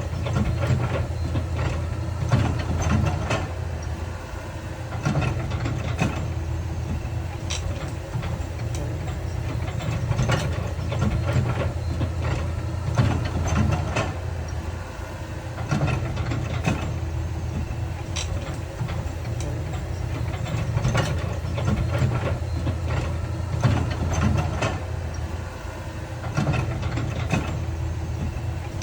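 Heavy diesel earthmoving machinery running steadily, with repeated irregular metallic clanks and knocks throughout.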